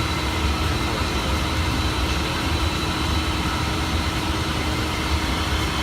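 Steady cabin drone of a private jet in flight, heard from the cockpit: a constant low rumble of the engines and rushing air with a steady hum over it.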